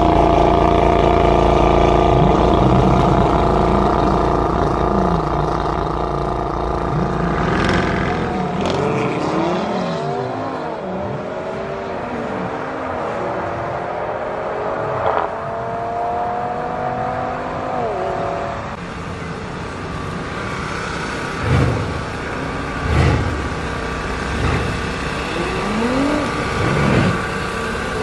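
BMW Alpina B7 Biturbo's twin-turbo V8 and a second car revving hard and steadily at the start line. Both then launch and accelerate away, the engine pitch rising and dropping at each gear change. Later the sound is quieter, with a few short revs near the end.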